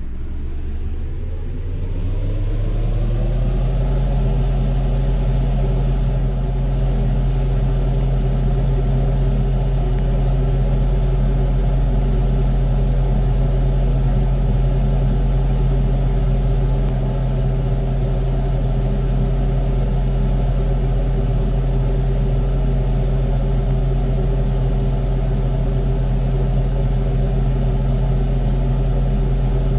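Unbranded, home-modified wall fan starting up: its motor hum rises in pitch over the first few seconds as the blades come up to speed, then runs steadily at full speed with a strong low hum.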